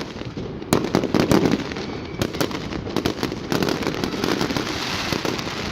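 Fireworks display going off: a rapid series of sharp bangs and crackling reports, with the loudest cluster of bangs about a second in.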